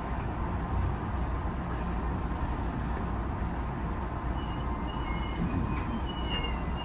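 HB-E210 series hybrid train running along the track: a steady low rumble of wheels and motors. Thin, high wheel squeals come and go over the last two seconds or so.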